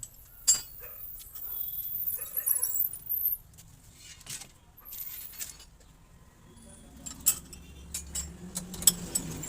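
Metal parts of a motorcycle rear shock absorber clinking and scraping as it is taken apart by hand: a sharp click about half a second in, a stretch of scraping around two seconds in, then a run of light metallic clinks near the end.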